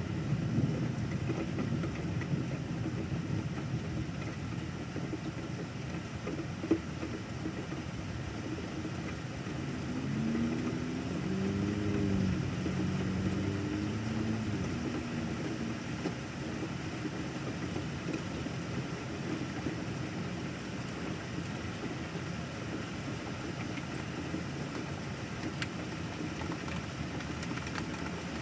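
Steady rain noise during a thunderstorm. About ten to sixteen seconds in, a vehicle engine passes, its pitch rising and falling. A single sharp tick sounds about seven seconds in.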